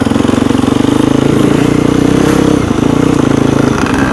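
Dirt bike engine running under throttle, its revs shifting a couple of times.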